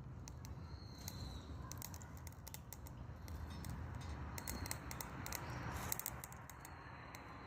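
Dry perilla branches crackling and popping as they burn in a Solo Stove wood stove: many sharp, irregular snaps, coming thicker in the second half, over a low steady rumble.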